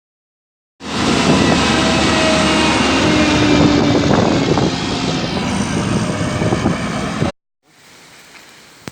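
Loud, steady road and wind noise of a car driving, which starts abruptly about a second in and cuts off suddenly near the end, leaving a much quieter background.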